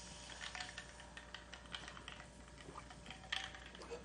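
Faint, irregular light clicks and taps, a few at a time, with a slightly louder cluster near the end.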